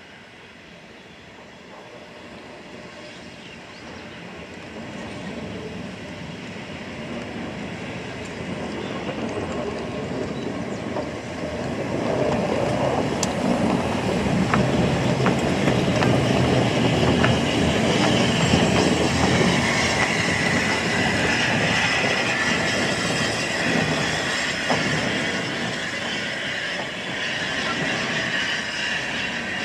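Steam-hauled train approaching and running past, its sound building steadily over the first ten seconds or so and loudest through the middle, with short clicks of wheels over the rails, then easing slightly near the end.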